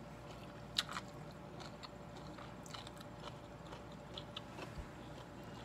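Faint chewing of crunchy stir-fried cabbage and beef, with a couple of light clicks about a second in and a few softer ticks later.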